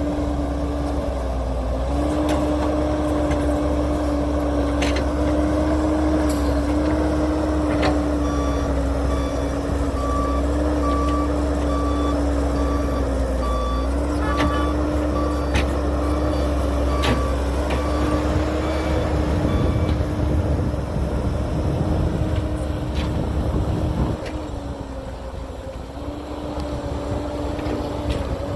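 Heavy diesel engine running steadily while a reversing alarm beeps about once a second through the middle stretch, with a few sharp clicks and knocks.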